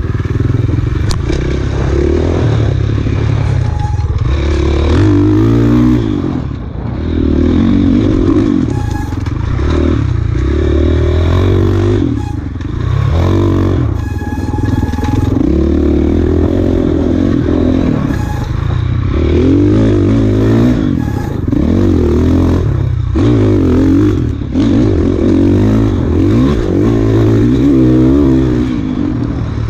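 Off-road dirt bike engine being ridden hard, its pitch climbing and falling again and again as the throttle is worked and gears change, with brief let-offs. Occasional knocks and rattles from the bike.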